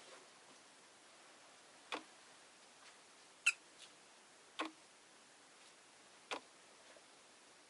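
Rosy-faced lovebirds making scattered sharp clicks and taps in their cage, four louder ones a second or two apart and a few fainter, over a faint steady hiss.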